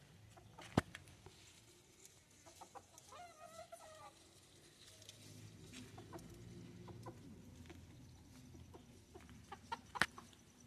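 A chicken gives one drawn-out call about three seconds in, with a few sharp clicks or knocks around it, the loudest near the end.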